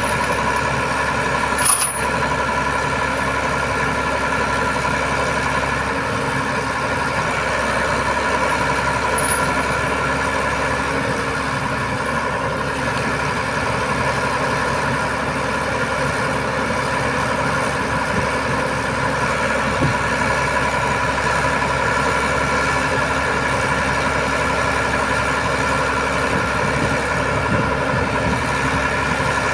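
Boom truck's diesel engine running steadily, with a constant whine over the engine sound; a short sharp click about two seconds in.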